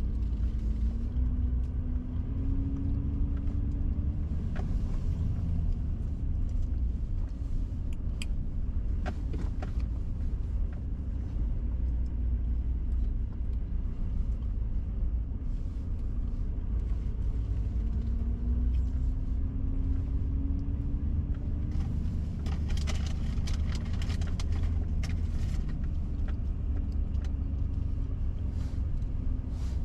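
Car driving slowly, heard from inside: a steady low engine and road rumble, with the engine note rising gently twice as it pulls away, and scattered clicks and ticks, mostly in the last third.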